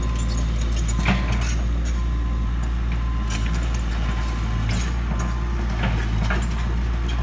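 Large excavator's diesel engine running steadily under load, with scattered metallic clanks and squeaks as the tracked machine drives off.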